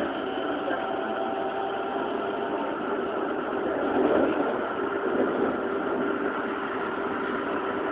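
Running noise inside a Keikyu N1000 series train with Siemens GTO VVVF control, wheels on rail at speed, with a faint motor and inverter whine whose higher tones fade out about three seconds in.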